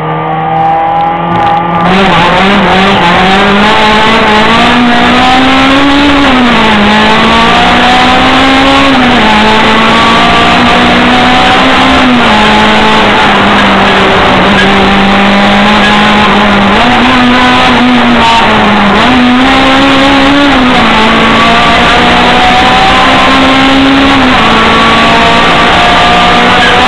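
Hillclimb race car's engine heard on board from inside the cabin, running very loud at racing speed. Its revs rise and fall again and again as the car is driven up the course through the bends.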